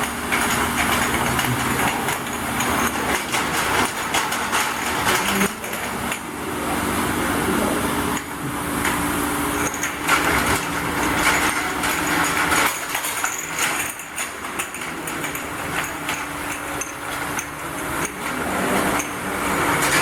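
Double-track bottle washing machine running: a steady machine hum under a dense, continuous clatter and knocking of bottles moving through it.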